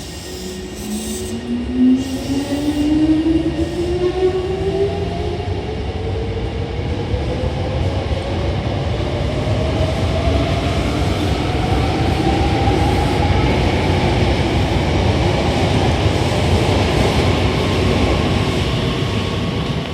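Hankyu 5100 series electric train pulling away from a station. Its traction motor and gear whine climbs steadily in pitch as it speeds up, over a growing rumble of wheels on rail, with one short sharp knock about two seconds in.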